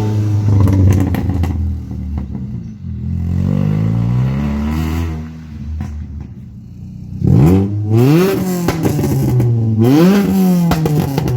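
Ford Fiesta ST150's four-cylinder engine running with the rear silencer removed, settling at idle and then revved up twice near the end, each rev rising and falling back.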